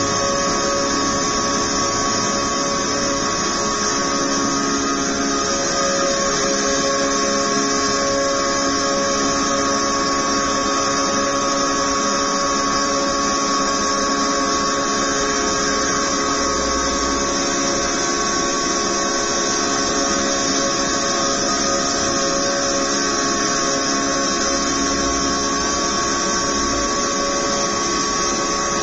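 NASCAR race trucks' V8 engines running flat out at a nearly constant speed, a steady high drone that barely changes in pitch.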